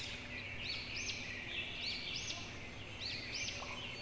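Faint birdsong: small birds chirping in short, arched chirps several times a second, over a steady faint hiss.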